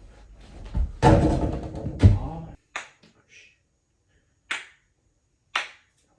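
Handling noise: a rustling, scraping stretch with two heavy knocks, then three short, sharp clicks spaced a second or more apart.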